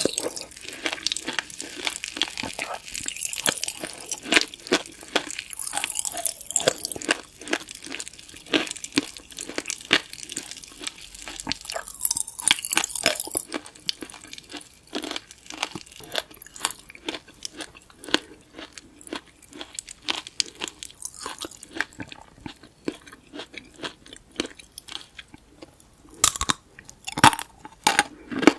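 Close-miked crunching and chewing of tanghulu: the hard candied-sugar shell on the fruit cracking in many sharp, irregular crackles between the teeth, with wetter chewing in between.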